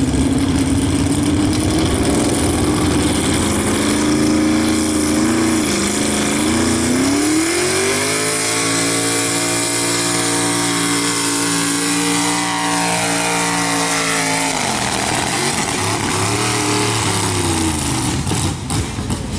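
Super stock two-wheel-drive pulling truck's engine at full throttle, climbing in pitch over the first seven seconds or so, held high and steady, then falling away about fourteen seconds in.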